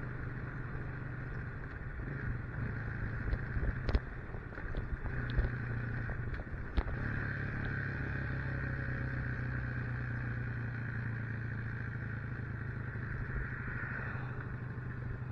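Motorcycle engine running steadily on the move, with wind and road noise over it, and a couple of sharp knocks about four and seven seconds in.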